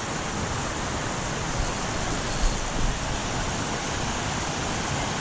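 Water pouring over a small creek dam: a steady rushing, with a few brief low bumps midway.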